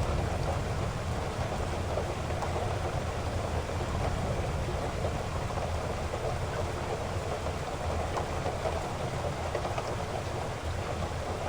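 Heavy rain falling steadily, with a low rumble of thunder fading away in the first second or two.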